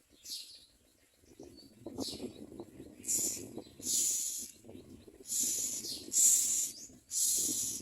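Common mynas at the nest giving harsh, hissing calls: a run of half-second rasps starting about three seconds in and getting louder, over scratching and rustling in the nest.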